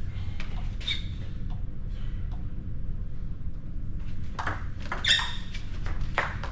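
A ball being hit back and forth in a racket-sport rally: sharp ringing strikes, one about a second in and several close together near the end.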